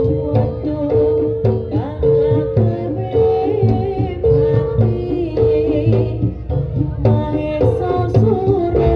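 Live jaranan (kuda lumping) ensemble music: hand drums beating a steady, driving rhythm under a pitched note struck over and over about once a second, with a wavering melody line above.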